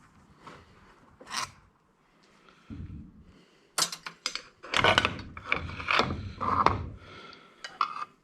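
Parts of an old electric angle grinder being worked apart by hand: irregular metal clicks, knocks and scrapes, sparse at first and busier and louder in the second half.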